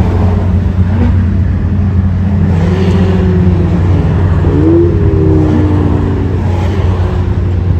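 Track cars' engines running at speed on a race circuit over a steady low rumble, one car's engine note rising and then falling as it accelerates past about four and a half seconds in.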